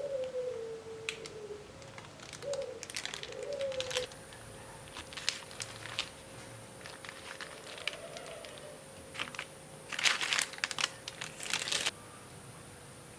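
Bursts of crinkling and rustling, like a light wrapper being handled, about three seconds in and again near the end. In the first few seconds a dove coos several times.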